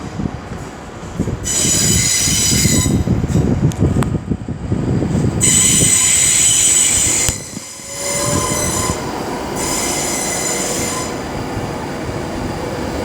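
Electric train's wheel flanges squealing as it runs slowly through the station, in three loud, high-pitched bursts over a steady low rumble of wheels on rails.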